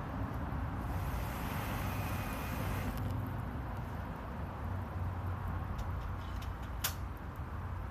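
Wood fire burning in a small fire pit, with a few sharp crackles and one loud pop near the end, over a steady low rumble.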